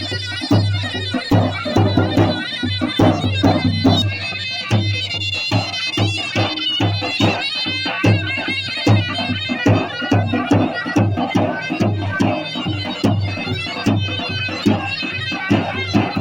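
Traditional Kurdish folk dance music: a loud, reedy wind instrument playing a melody over a steady, regular drum beat.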